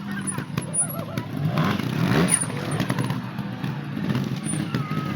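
Small motorcycle engine running and revving, its pitch rising sharply about two seconds in.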